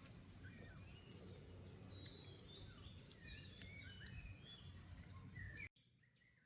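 Faint outdoor ambience: a low rumbling background with scattered short, high chirping calls. It all cuts off abruptly near the end, leaving near silence.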